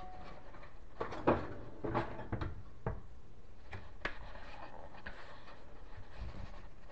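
Kitchen cabinet pull-out basket and its rail hardware being handled: a series of separate knocks and clacks, the loudest about a second in, thinning out after about four seconds.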